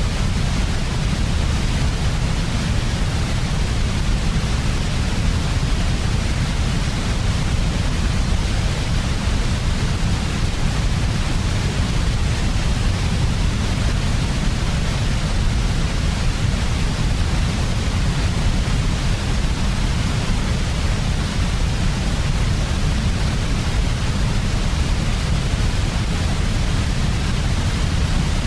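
Steady, unchanging sleep-aid white noise, a continuous hiss with extra weight in the deep low end.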